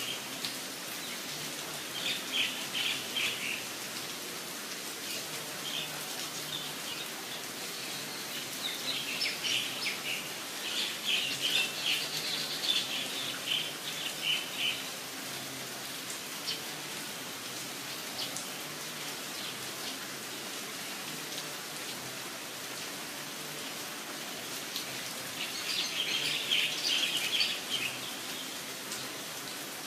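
Steady rain, with a small bird chirping in quick runs of high notes, three times: about two seconds in, from about eight to fifteen seconds, and near the end.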